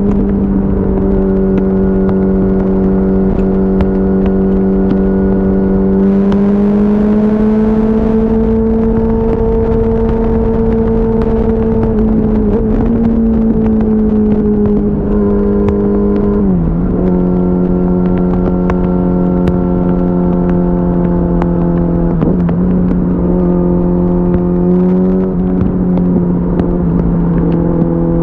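A 2004 Yamaha R6's 600 cc inline-four engine pulling steadily at highway speed, with wind rush. Its note rises slightly, then drops sharply and settles lower about two-thirds of the way through.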